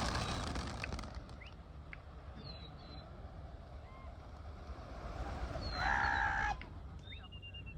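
Open-air background noise with a few faint, short bird chirps, and one brief flat honk about six seconds in.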